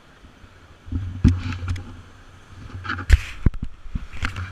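A river-rafting raft moving on the water: three bursts of splashing and knocks, about one, three and four seconds in, over a low rumble on the microphone.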